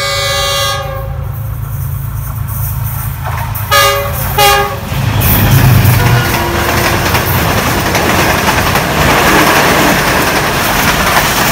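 GEU-20 diesel-electric locomotive sounding its horn, a long blast that ends just under a second in, then two short toots about four seconds in. From about five seconds in the locomotive and then the coaches of the express pass at speed with a loud, steady rush of wheels on the rails.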